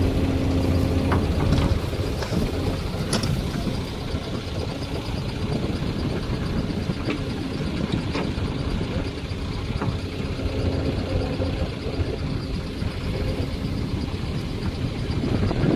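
Heavy diesel engine running steadily under load, with a few sharp clanks.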